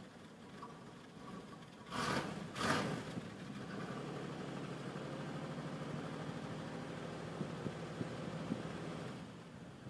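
1990 Cadillac DeVille V8 on a cold start, heard at the tailpipe: two brief loud bursts about two seconds in, then a steady idle that drops away near the end.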